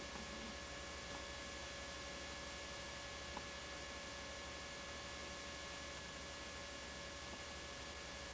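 Steady hiss with a constant electrical hum and several faint steady whine tones, with one small click about three seconds in. This is the background noise of a poor audio track on an old home-video tape.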